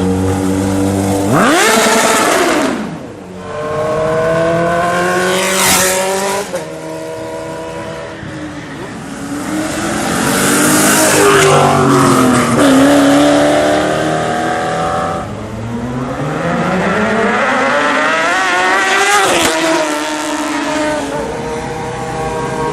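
Sport motorcycles accelerating hard and passing by one after another, engine pitch climbing as they rev and swooping down as each one goes past, several times.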